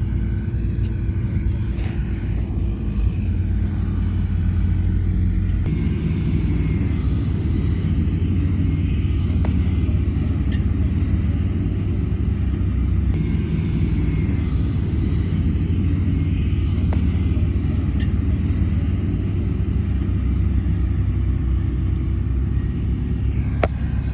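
Diesel engine of heavy earthmoving machinery running steadily with a deep rumble, growing fuller about six seconds in. A few sharp metallic knocks come through over it.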